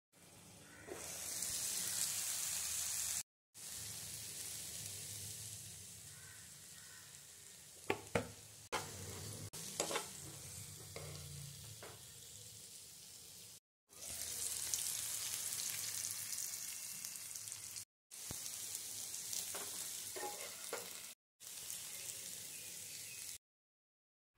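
Food sizzling as it fries in hot oil in a pan, with a few sharp clicks and scrapes of a spoon stirring it about a third of the way in. The sizzling cuts off and restarts abruptly several times.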